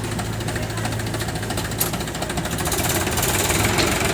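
Heavy diesel engine running steadily at work, with a rapid, even clatter and a constant low hum.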